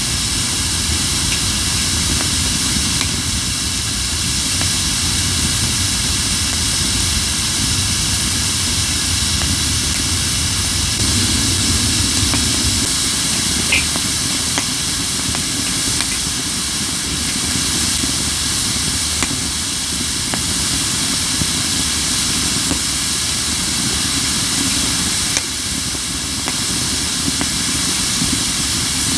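Crape myrtle firewood burning with a strong steady hiss and only a few faint crackles, one sharper pop about halfway through: the hissing of wood that still holds moisture, the way green wood burns. A low rumble underneath eases off about twelve seconds in.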